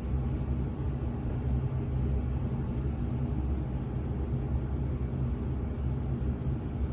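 Hurricane wind making a steady low rumble.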